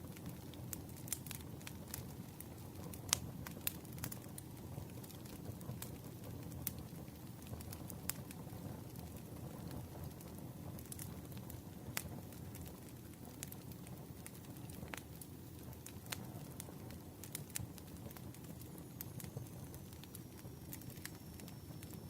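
Campfire crackling: a steady low rumble of burning wood with irregular sharp pops and snaps, the loudest pop about three seconds in.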